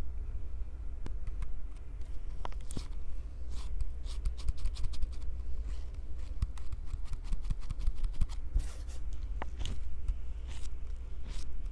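Fingers gripping, squeezing and scratching a Tascam recorder's microphones close up: irregular scratchy clicks over a low handling rumble, with a quick run of ticks midway through.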